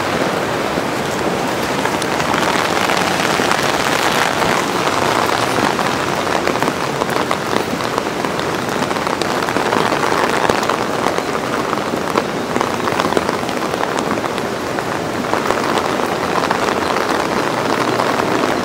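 Steady, loud rain during a thunderstorm, a dense wash of drops striking surfaces close to the microphone.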